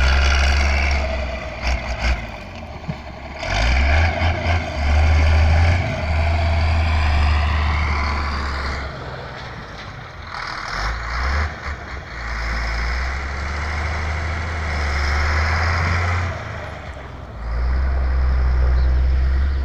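Heavy trucks and road-works machinery running, with a deep rumble that comes and goes in long stretches.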